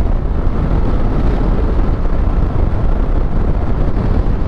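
Steady wind rush and road noise on a motorcycle rider's microphone while riding at speed, a loud, even rumble with no break.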